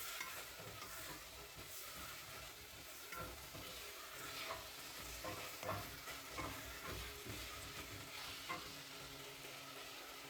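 Food sizzling in a frying pan while being stirred. A utensil scrapes and knocks against the pan now and then.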